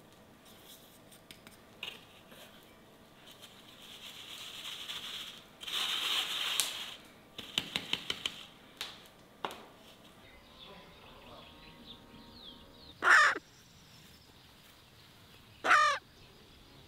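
Two loud, short bird calls about two and a half seconds apart near the end. Before them there is a stretch of scraping and a quick run of about six clicks from handling kitchen things.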